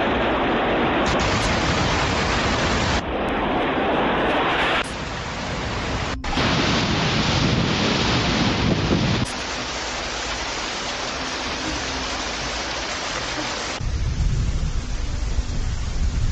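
Steady roar of heavy rain and rushing water, spliced from several clips, so the sound changes abruptly every few seconds.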